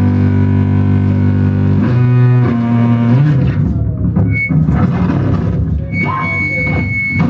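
Loud experimental noise music: a low, sustained droning tone starts abruptly, shifts pitch twice, then breaks up into rough, noisy texture. A thin, piercing high tone sounds briefly near the middle and is held for about a second near the end.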